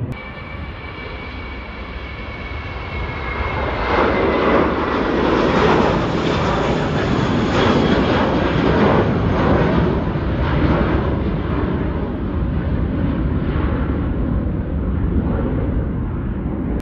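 Engines of a departing airliner at full takeoff power. The noise swells about three to four seconds in, stays loud through the middle and eases slightly toward the end, with a faint falling whine early on.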